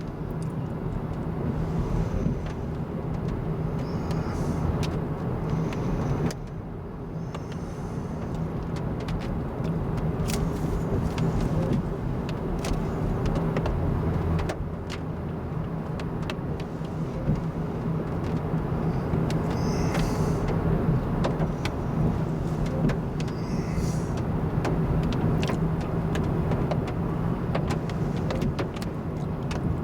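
Car driving: steady engine and road noise heard from inside the vehicle, with scattered sharp clicks.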